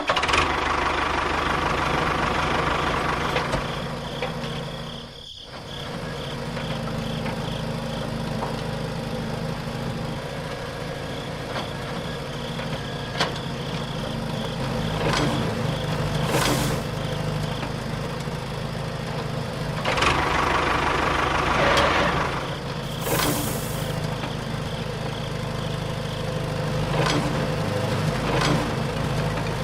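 A small motor running steadily, with a brief dropout about five seconds in and a few louder noisy swells later on.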